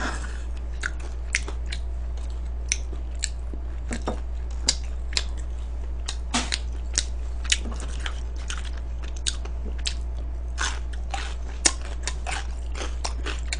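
Close-up crunching and chewing of crispy fried chicken: irregular sharp crunches, a few each second, over a steady low hum.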